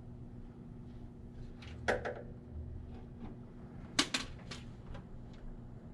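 A few sharp clicks and clinks of parts and fittings being handled, one a little before two seconds in and a quick cluster of three or four about four seconds in, over a steady low hum.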